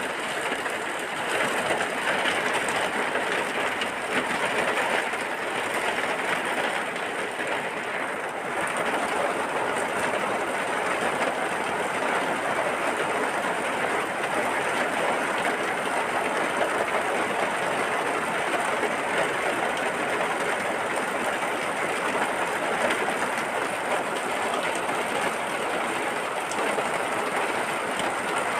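Steady rain falling, an even hiss with no breaks or changes in level.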